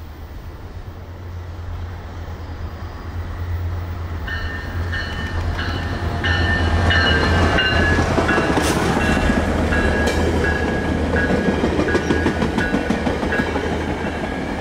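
Metrolink diesel commuter train with bilevel coaches passing close by on a curve: a steady low engine rumble and wheel noise that grow louder as it nears. From about four seconds in, high, choppy squealing comes from the wheels.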